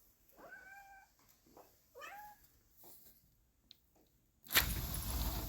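A domestic cat meowing twice, two short calls about a second and a half apart. About four and a half seconds in comes a louder burst of noise lasting about a second.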